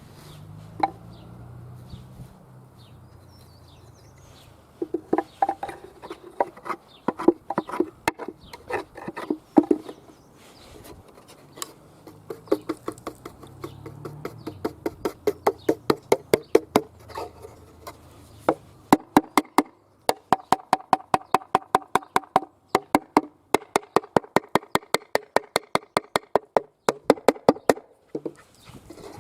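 Rapid, repeated knocking and scraping on the wood of a nest box, a few sharp strokes a second. The strokes turn very even and regular in the second half.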